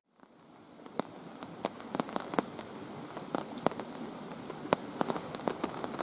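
Steady rain, with individual heavy drops tapping sharply at irregular intervals. The sound swells in over about the first second.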